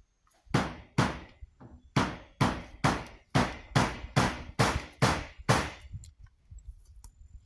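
Hammer blows: about eleven sharp strikes at a steady pace of roughly two a second, each ringing briefly. They stop a little past halfway.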